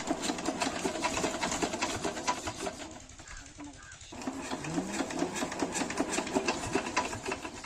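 7 HP diesel engine of a water pump set running steadily with a fast, even chugging beat. It dips for about a second midway.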